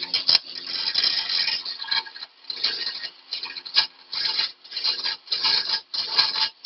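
Steel track pin being ground on a running grinder, its cut end pressed against the wheel in a dozen or so short rasping passes, about two a second, to knock the edges off. A faint steady motor hum runs underneath.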